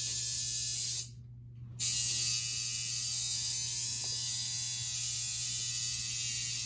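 Electric tattoo machine buzzing steadily as it works on skin; it stops about a second in and starts again just under a second later.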